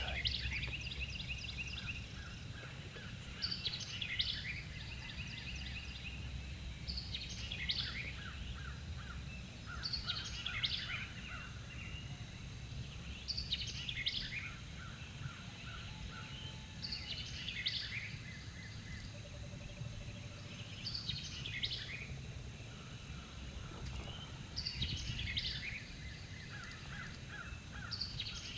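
A songbird singing the same short phrase over and over, about every three and a half seconds, each phrase a quick run of high notes, over a steady low rumble.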